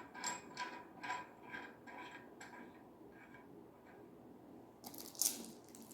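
A run of small, regular clicks, about three a second, fading out a little over halfway, then a short rustle near the end: plastic shower-filter parts being handled and twisted together.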